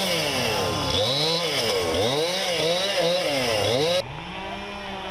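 Chainsaw engine revving up and down over and over. About four seconds in it gives way abruptly to a steadier, quieter engine drone.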